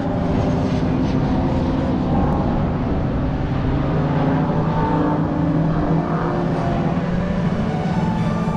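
Race car engines running on the circuit, several at once, their pitch rising and falling as they accelerate and lift.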